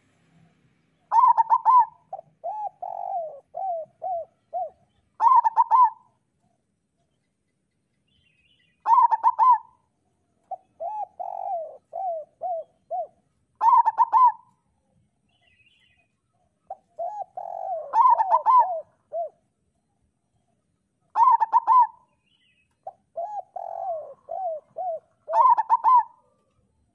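Zebra dove (local perkutut) singing. The song comes in repeated phrases: a loud, higher opening note followed by a run of four or five lower, short coos, with the phrases a few seconds apart.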